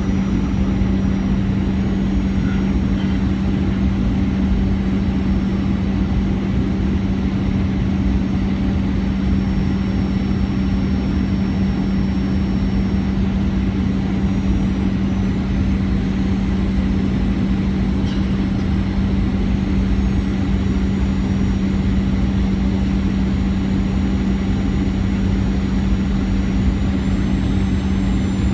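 A steady engine drone with a strong low hum that stays unchanged throughout.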